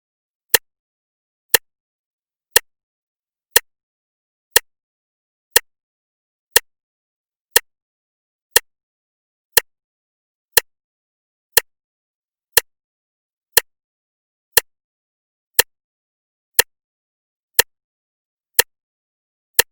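Clock ticking once a second: short, sharp, evenly spaced ticks with nothing audible between them.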